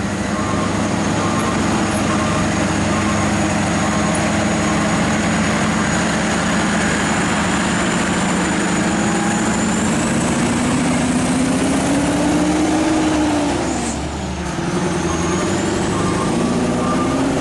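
Scania R580's V8 diesel engine pulling under heavy load. Its pitch climbs slowly as the truck gathers speed, dips with a brief drop in level about fourteen seconds in at a gear change, then climbs again.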